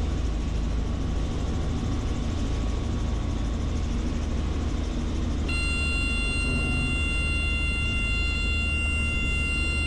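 Helicopter engine and rotor running with a steady low drone. About five and a half seconds in, a steady high whine of several tones joins it.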